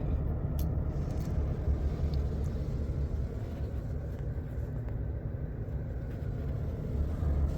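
Steady low rumble of a car running, with no distinct knocks or other events.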